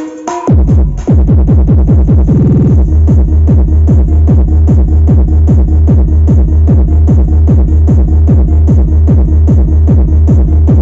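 Fast electronic dance music with a heavy bass beat played through a Sony FLX9W stereo system during a sound test. The beat starts about half a second in after a brief break and then runs steady and loud.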